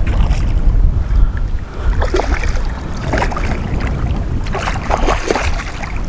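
Wind rumbling on the microphone over water splashing and slapping around a kayak, with a cluster of sharper splashes in the second half.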